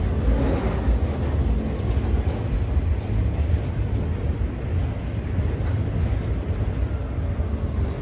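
Freight train rolling past with a steady low rumble from its wheels and cars.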